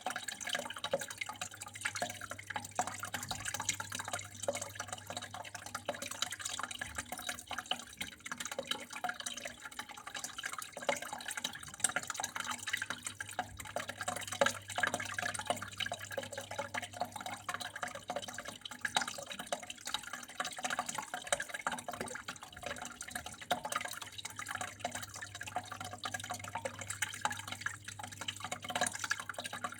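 Water flowing and trickling steadily, with a continuous irregular patter of small splashes and drips. A low steady hum runs underneath.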